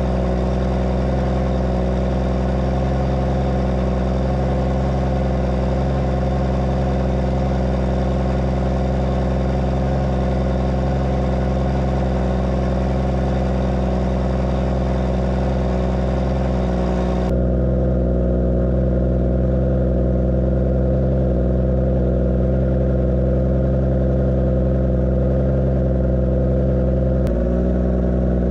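Case MX120 tractor's diesel engine running steadily under load while pulling a plough. About two-thirds of the way through, the sound abruptly turns duller as the higher tones drop away.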